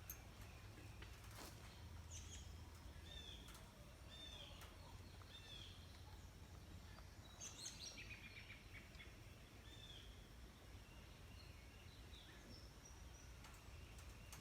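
Faint birdsong: short arched chirps repeated every second or so, over a low steady background hum, with a few faint clicks.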